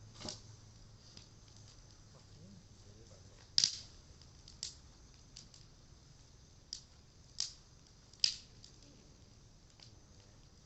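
Campfire of cedar wood crackling: scattered sharp pops and snaps, about six of them, the loudest a little over a third of the way in and again near three-quarters through, over a faint steady background.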